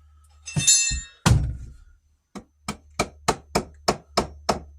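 Hammer knocking a wooden piece into a wall opening to set it flush with the stud: a brief scrape, one loud knock, then a quick run of about eight blows, roughly three a second.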